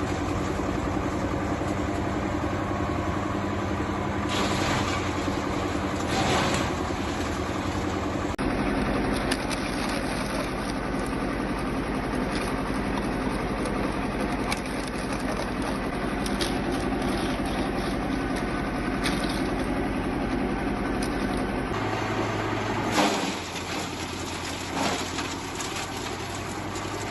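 Engine-driven mobile wood chipper running steadily, with a few brief louder noisy surges. The sound changes abruptly about eight seconds in and again about twenty-two seconds in.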